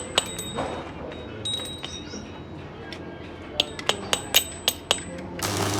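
Metal tools clinking against metal engine parts: a few sharp clinks with a ringing tone, then a quick run of about six clinks about four seconds in, followed by a short burst of noise near the end.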